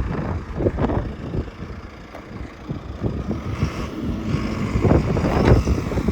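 Diesel engine of a JCB 3CX backhoe loader running under work, its level rising and falling, with wind buffeting the microphone.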